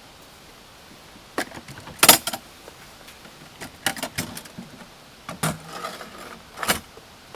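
A series of knocks, clatters and rattles, the loudest about two seconds in and more near the end, over a steady hiss of rain.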